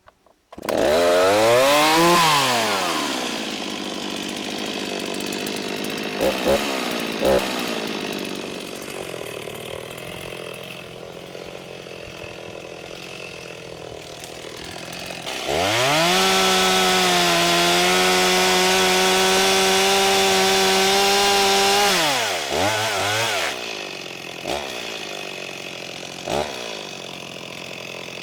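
Stihl MS 260 two-stroke chainsaw, started for the first time, catching about half a second in and revving before settling to idle. It is blipped briefly a few times, held at high revs for about six seconds, then drops back to idle with two more short blips.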